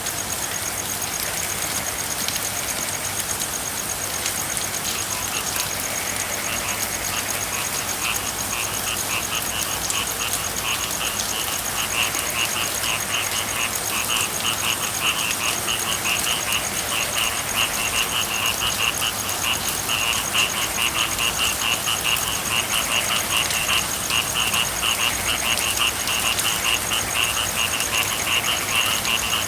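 Steady rain with frogs calling in rapid pulsed trills that start about five seconds in and grow louder.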